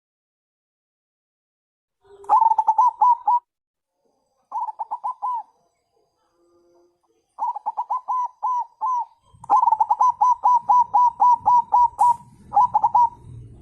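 Zebra dove (perkutut bangkok) cooing in bursts of quick, rolling staccato notes, about five or six per second, in five runs with short pauses between them. The longest run comes in the second half, with a low rumble underneath it.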